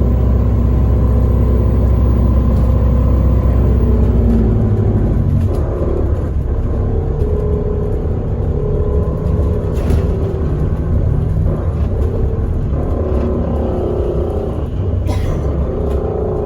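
A bus engine and road rumble heard from inside the moving bus. A deep, loud drone drops away about four and a half seconds in, and after it the engine note keeps shifting, with a few light rattles.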